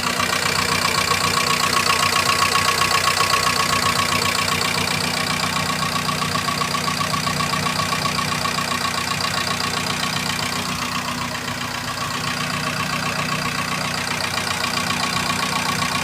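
Fiat Doblò 1.8 16v four-cylinder engine idling with a rapid tapping noise from the top end of the engine, the valve-train noise that the mechanic traces to the hydraulic lifters.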